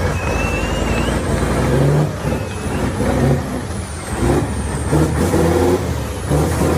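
6x6 Tatra trial truck's engine revving in repeated surges as the truck works over the course.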